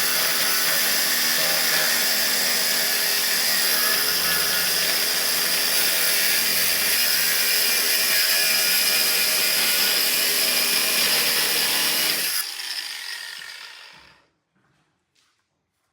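A power tool's motor runs steadily under load, then is switched off about twelve seconds in and spins down over a couple of seconds.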